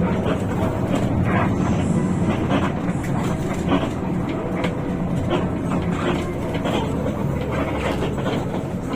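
Hino RK8 bus with a rear-mounted diesel engine under way: a steady low engine drone mixed with road and body rumble.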